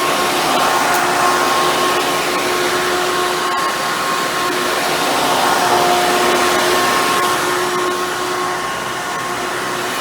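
Hoover bagless twin chamber upright vacuum cleaner running steadily: a whine over the rush of air, slightly quieter for a moment near the end.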